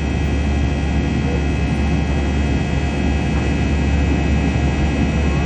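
Steady, even drone of an Airbus A321's jet engines and airflow heard inside the passenger cabin, strongest in the deep bass.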